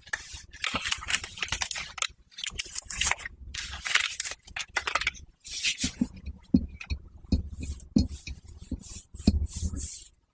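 Close-miked fabric rustling and scratching in short repeated strokes, clothing being rubbed and handled as an ASMR trigger. Soft low bumps join in during the second half.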